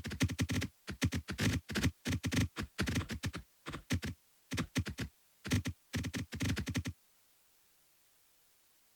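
A rapid, irregular series of short clicks and taps, like typing on a keyboard, that stops abruptly about seven seconds in.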